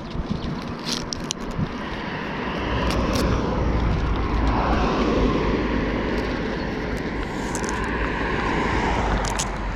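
A vehicle going by on the road, its rushing noise swelling for a few seconds and easing off, over low wind rumble on the microphone, with a few light clicks and rattles.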